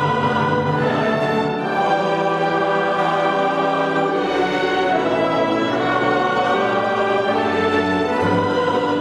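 Choir and orchestra performing sacred classical music, sustained chords that shift every few seconds.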